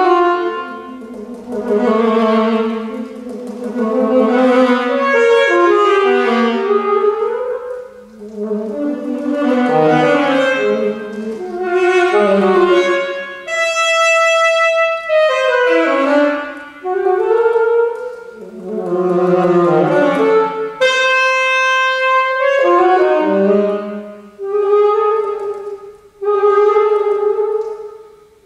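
Solo saxophone playing a contemporary concert work in phrases of quick, shifting notes broken by short breaths. A clear high note is held about halfway through, and another about three-quarters of the way in.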